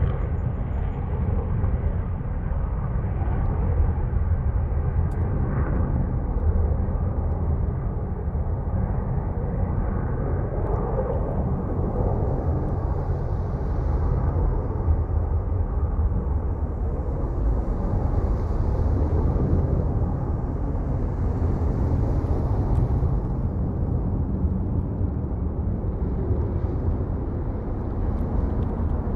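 Lockheed Martin F-35C jet engine roar heard as a steady low rumble that holds even throughout.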